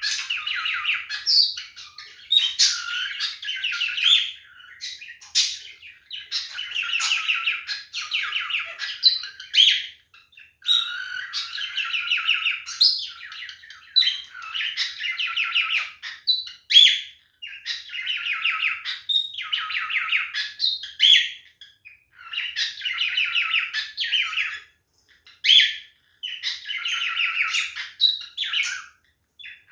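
Male cockatiel singing its warbling mating song: runs of fast, buzzy chatter broken by short high whistled notes, in phrases of a second or two with brief pauses between.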